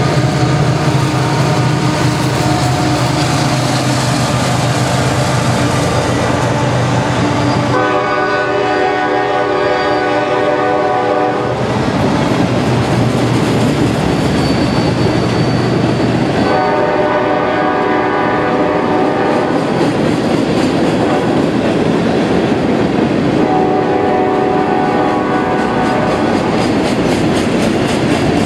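Empty coal train passing: the EMD SD70MAC diesel locomotive runs by, then empty open hopper cars roll past on steel wheels. The locomotive's horn sounds three blasts, about 8, 16 and 23 seconds in.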